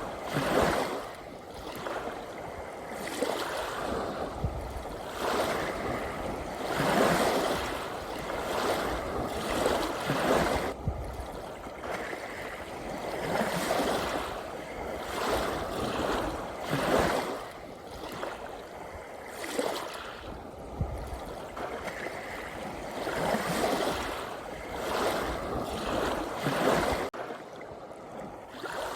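Ocean waves breaking and washing in, each surge swelling and fading every two to four seconds. The wash drops suddenly near the end.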